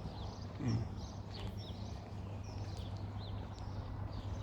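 Small birds chirping, repeated short high calls that fall in pitch, over a steady low background hum, with one brief low sound less than a second in.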